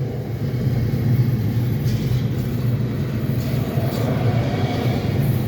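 Union Pacific grain train rolling past close by: a steady low rumble that holds at the same level throughout.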